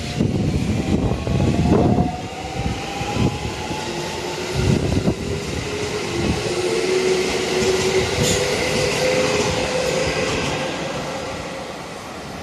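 JR 313 series electric train pulling out of the station, its inverter-driven traction motors whining in a slowly rising pitch as it gathers speed, with a few wheel knocks over rail joints. Wind buffets the microphone in the first couple of seconds, and the sound fades toward the end.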